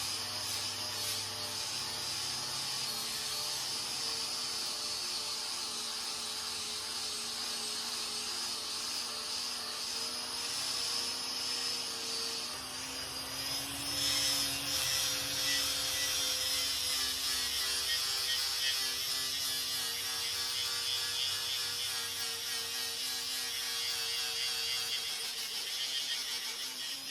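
Power tool fitted with a stripping disc, running steadily against the steel face of an anvil to polish it, a continuous motor whine. About halfway through the pitch dips slightly and the sound gets a little louder.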